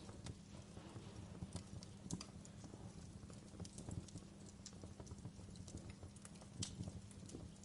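Wood fire burning in a fireplace, crackling and popping irregularly over a low steady rumble of flame.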